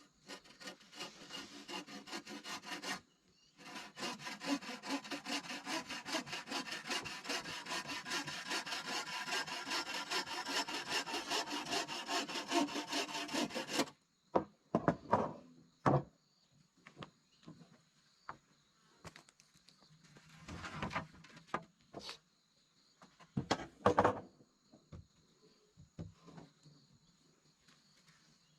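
Hand saw cutting wood in rapid, even back-and-forth strokes, with a short pause about three seconds in; the sawing stops about halfway through, and a few scattered knocks follow. Insects buzz steadily throughout.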